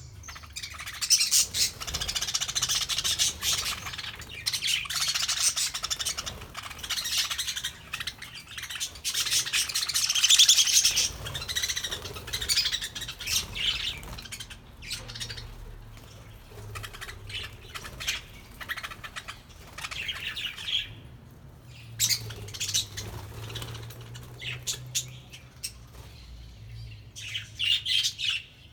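A flock of budgerigars chattering and chirping in a dense, fast warble that swells and thins in waves, with occasional squawks.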